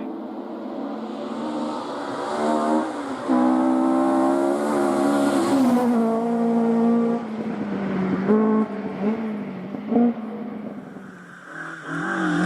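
Rally car engine running hard on a stage, the pitch climbing and dropping with gear changes, then a few short, sharp revs before another climb near the end.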